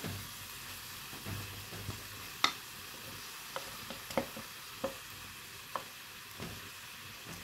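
Steady frying sizzle as cooked rice is tipped from an aluminium pot into a hot pan of frying chicken, with scattered light metal knocks of the pot against the pan, the loudest about two and a half seconds in.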